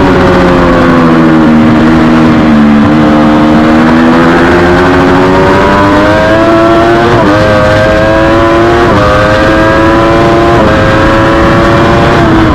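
Triumph Daytona 675R's three-cylinder engine heard onboard during a race. The engine note sinks as the bike slows for a corner, then climbs under hard acceleration, with sharp drops at three quick upshifts about seven, nine and ten and a half seconds in.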